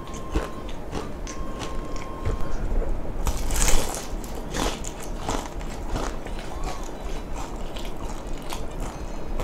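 Crispy fried chicken skin being chewed close to the microphone: steady crackling crunches, with one loud crunchy bite about three and a half seconds in, then more crunchy chewing.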